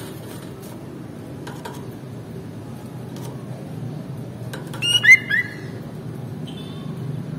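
Sooty-headed bulbul giving a short burst of quick chirping notes about five seconds in, then a faint single note, over a steady low background hum.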